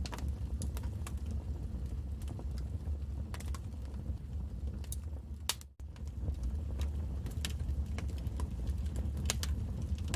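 Wood fire crackling: irregular sharp pops and snaps over a low steady rumble of the flames. The sound cuts out for an instant a little over halfway through.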